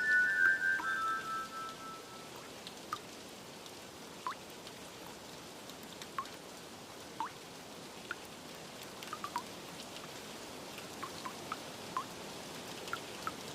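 Steady rain hiss with scattered single water drips plinking at irregular intervals. A few high, held musical notes fade out within the first two seconds.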